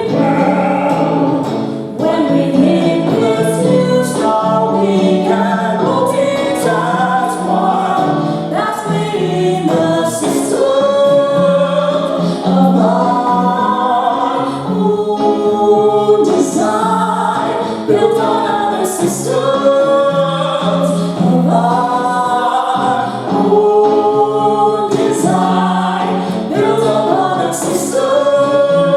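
Live singing of a stage-musical number: several voices sing a melody together over steady low accompanying notes.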